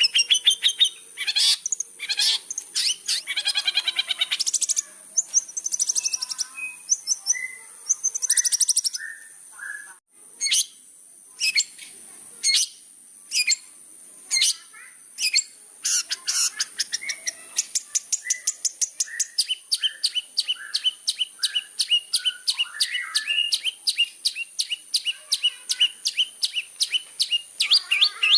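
Long-tailed shrike (cendet) singing a loud, varied chattering song: bursts of sharp chirps and trills, then from about halfway a long run of fast, evenly repeated notes. A steady high-pitched hiss runs underneath.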